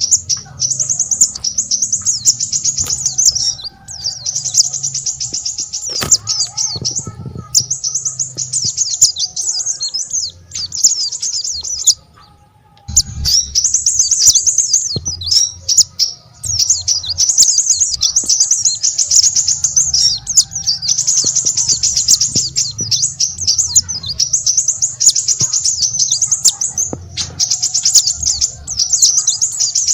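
Small songbirds singing: repeated phrases of rapid, high twittering, each two to three seconds long, with a brief pause about twelve seconds in.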